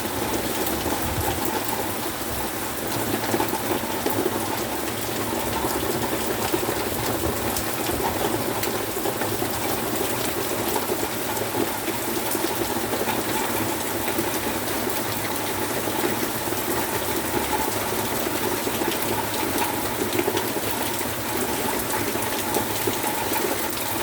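Heavy rain falling steadily, an even rushing hiss with many small ticks of drops throughout.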